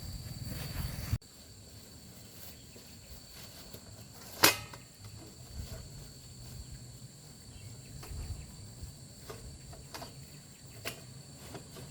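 Steady high-pitched insect chirring over faint outdoor background noise, with one sharp click about four and a half seconds in and a few lighter knocks near the end. A rougher, louder noise cuts off suddenly about a second in.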